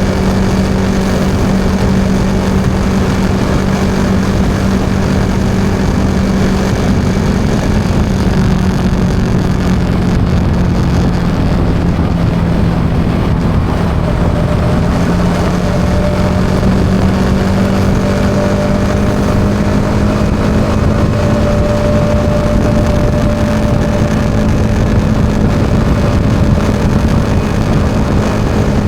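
Yamaha XSR 155's single-cylinder four-stroke engine running at a steady cruise, with tyre and wind noise. The engine note sags a little about halfway through and climbs back toward the end.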